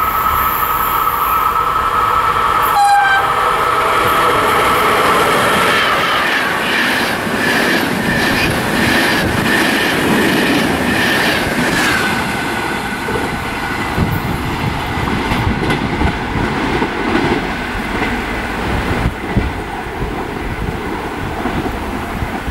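Passenger train passing close through a station. Its horn sounds at the start and again briefly about three seconds in. The coaches then run by with a steady clatter of wheels over the rail joints and a high wheel squeal, and the sound drops to a lower rumble as the last coaches go by.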